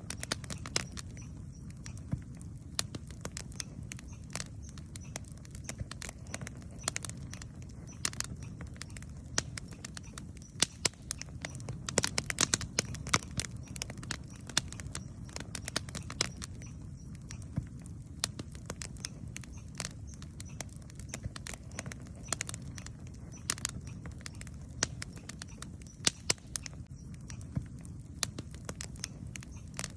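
Wood campfire crackling and popping, with irregular sharp snaps all through and a run of louder pops about halfway. A low steady rumble lies beneath.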